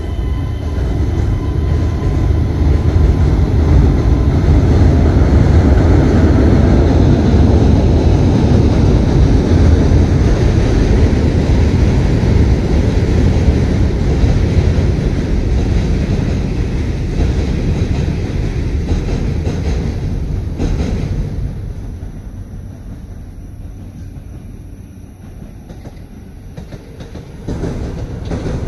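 Keisei electric trains crossing a railway bridge: a loud, dense rumble of wheels on the rails that fades away about three quarters of the way through. Near the end another train's rumble starts abruptly.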